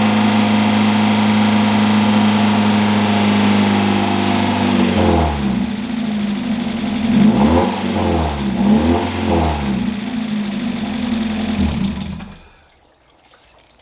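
Freshly rebuilt Mazda Miata inline-four engine running on its first break-in start: it holds a steady fast idle, then revs up and down about three times, then is shut off near the end.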